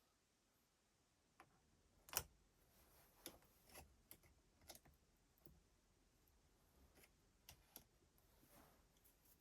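Faint, irregular clicks and light taps of small hard parts being handled, with the strongest tap about two seconds in: the sound of working on a cordless drill's gearbox parts on a bench.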